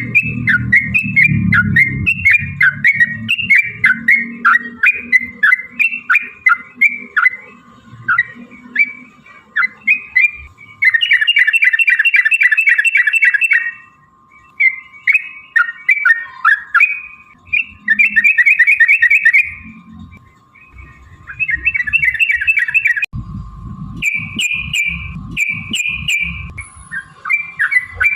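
Yellow-vented bulbuls (trucukan) calling: a quick run of short chirping notes, broken by several bursts of rapid rolling trills in the middle and latter part.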